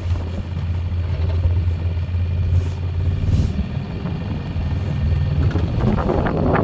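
Four-wheeler (ATV) engine running with a steady low drone while it pushes snow with a small plow, turning rougher and noisier about six seconds in.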